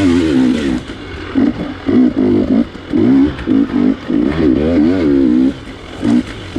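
Dirt bike engine revving in short bursts as the throttle is opened and closed again and again, its pitch wavering up and down.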